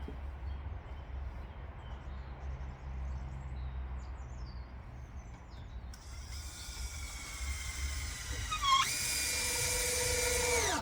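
Cordless drill-driver running up to drive screws into OSB board, a motor whine that shifts pitch and jumps higher about three seconds in, then stops abruptly. Before it, only a low steady background rumble.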